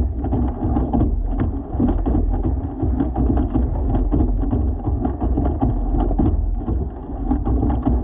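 Wind and rain on the microphone: a steady low rumble with many small taps.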